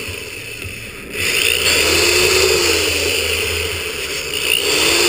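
Electric drill running in two bursts, its motor pitch rising and falling with the trigger as a larger bit widens a pilot hole for a bolt. The first burst runs from about a second in to near four seconds; a second one starts near the end.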